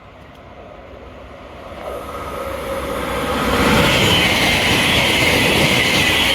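A Greater Anglia Class 720 electric multiple unit approaching and running through the station non-stop at speed. The noise of its wheels on the rails grows steadily louder and holds at a loud, steady level from about four seconds in.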